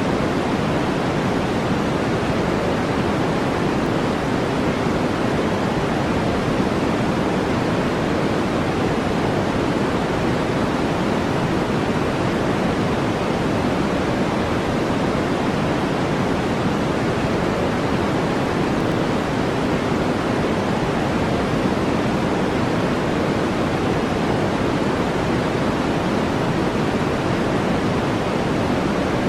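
Steady relaxation noise track: an even, unbroken hiss, fullest in the low-mid range and thinning toward the treble.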